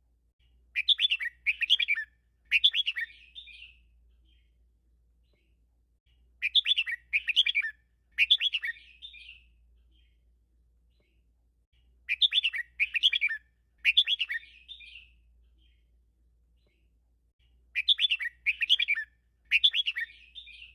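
Red-whiskered bulbul singing its 'double-three' song: four times, a short phrase of three quick warbled notes with a trailing flourish, repeated about every five and a half seconds. It is a 'teacher' song of the kind used to train caged bulbuls to sing.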